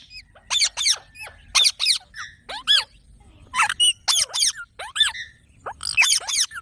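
Green parakeets calling: short, sharp, high calls repeated over and over, often two or three in quick succession.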